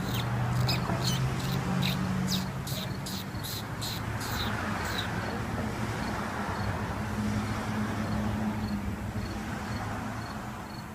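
A bird calls a rapid series of about a dozen sharp, high notes over the first five seconds, over a steady low hum. Faint, evenly spaced high ticks continue after the calls stop.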